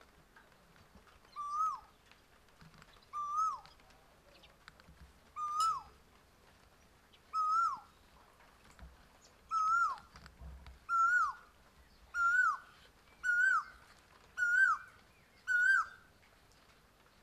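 A bird calling about ten times. Each call is a short note that rises and then drops sharply, and the calls come closer together and slightly higher in pitch as they go on.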